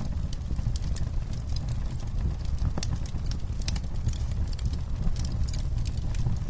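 Campfire burning: irregular sharp crackles and pops of burning wood over a steady low rumble.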